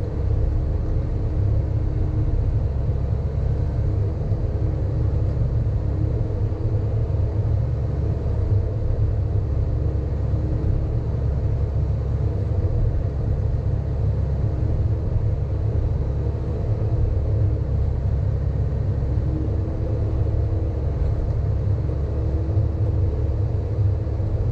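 Sany hydraulic excavator's diesel engine running steadily under working load, a low rumble with a faint higher tone that comes and goes several times.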